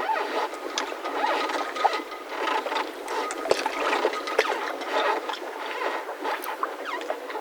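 Mooring ropes of boats in a yacht harbour creaking and squeaking irregularly as the boats shift, in many short squeaks and small clicks over water lapping.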